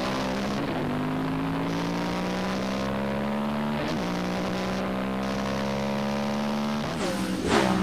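Racing motorcycle engine heard onboard, pulling hard down a straight. The engine note climbs slowly, then drops back briefly at an upshift about halfway through before climbing again.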